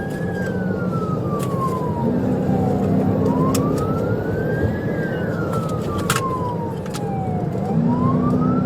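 Police car siren on a slow wail, rising and falling in long sweeps about every four and a half seconds, over the engine and road noise of a cruiser at highway pursuit speed.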